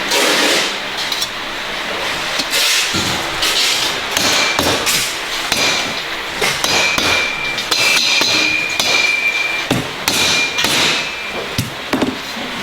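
Hammer blows on metal, struck at an irregular pace, with a high ringing tone hanging on after several of the strikes.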